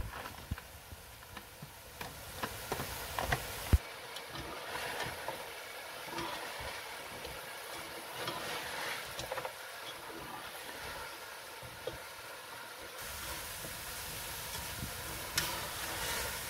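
Mixed vegetables frying in a pot, a soft steady sizzle with scattered clicks and scrapes of a stirring spoon. There is one sharp knock a little under four seconds in.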